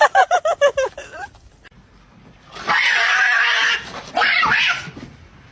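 Domestic cats tussling: one cat gives a fast run of short rising cries in the first second. Then come two long hisses, the second shorter.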